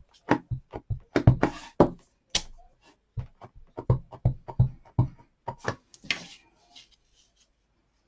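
Stamp ink pads being sorted by hand, their plastic cases clacking and knocking against each other in a quick irregular run of sharp taps, which stop about six seconds in.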